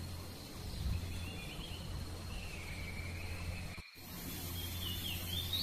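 Outdoor park ambience: a steady low rumble under a constant thin high tone like an insect, with a bird's wavering calls rising and falling. The sound drops out briefly about four seconds in.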